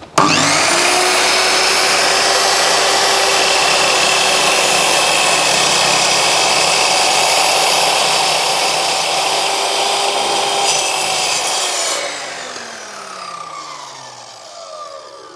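Einhell TC-MS 2112 mitre saw starting up and running loud and steady as its blade cuts through a 60 by 60 mm wooden post. About twelve seconds in it is switched off and the blade winds down with a falling whine.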